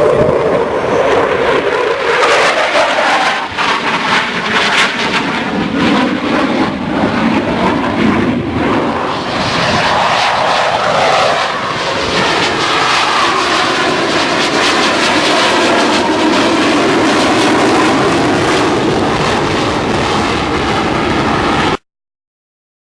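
Airplane engine running loudly as the aircraft flies past, its pitch dropping, then rising, then holding steady. The sound cuts off abruptly near the end.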